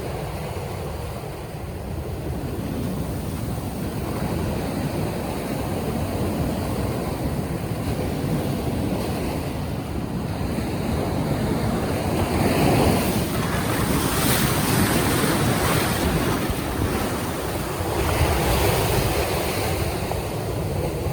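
Waves breaking in surf, with wind buffeting the microphone. The wash swells louder about twelve seconds in and again near eighteen seconds.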